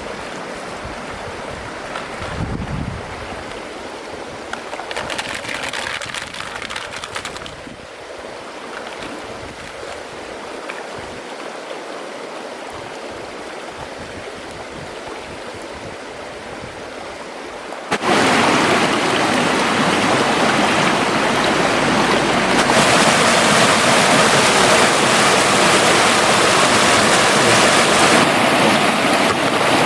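River water flowing and rushing. About two-thirds of the way in it jumps abruptly to a much louder, fuller rush of water.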